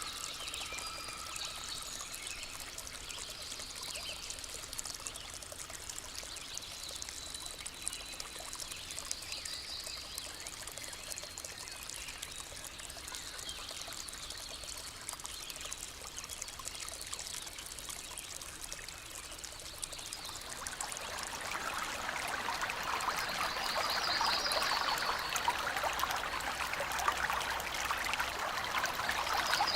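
Running water of a stream, a steady rushing trickle that grows louder about two-thirds of the way in, with a few brief high trills over it.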